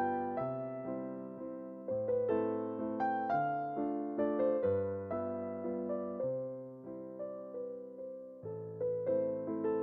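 Soft background piano music: gentle chords and a slow melody, each note struck and left to fade.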